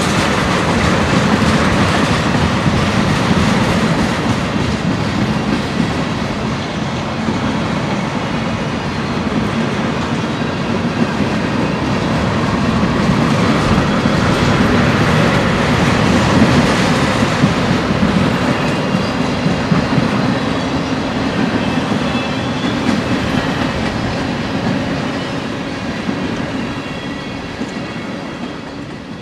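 A freight train of tank cars rolling past, a steady rumble with rapid wheel clicks, fading out near the end.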